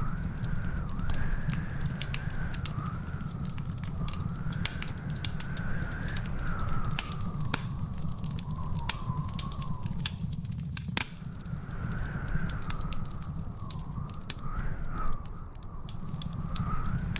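Wood fire burning in a fireplace: dense, irregular crackles and pops over a steady low rumble, with one sharp louder pop about eleven seconds in. A thin, wavering high whistle rises and falls behind the fire for most of the time.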